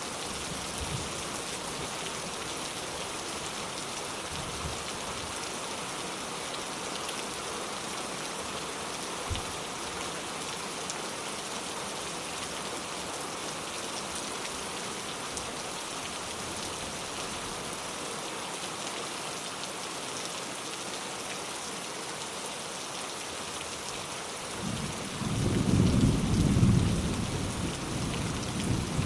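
Steady rain falling as an even hiss, with a low rumble of thunder that builds about twenty-five seconds in and rolls on near the end.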